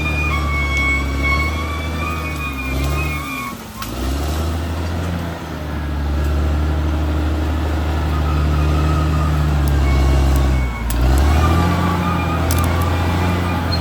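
Caterpillar D6R XL bulldozer working, its diesel engine running loudly. The engine note drops and recovers twice, about four seconds in and again about eleven seconds in. A high, wavering whine sits over the engine at the start and near the end.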